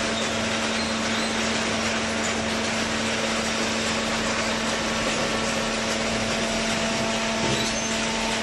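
Automatic horizontal hydraulic carton baler running: a steady hum over a constant wash of machine noise.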